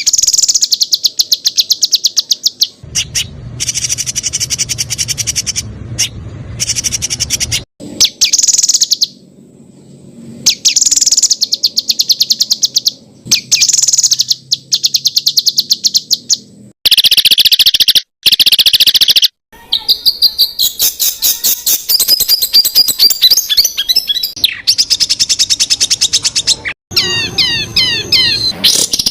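Songbird song edited into a dense run of rapid-fire 'tembakan' bursts: very fast strings of sharp, high repeated notes, each passage cut off suddenly and followed by another, with short silent gaps between some of them. Near the end comes a run of fast sweeping trills.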